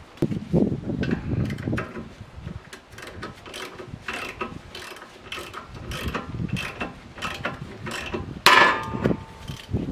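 Hand work on metal car parts: irregular clicks and knocks of tools and parts, with one louder metallic clank near the end.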